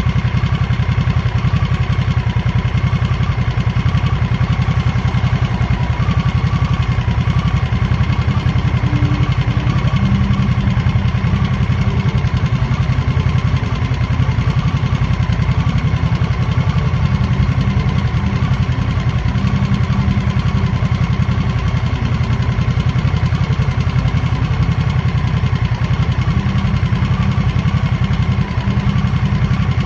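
A 2023 Harley-Davidson Nightster's Revolution Max 975T V-twin engine running steadily at an even speed, heavy on the low end.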